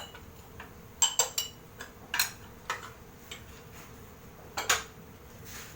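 A metal cooking utensil knocking and clinking against a pot of chicken pieces: about half a dozen sharp, irregular taps.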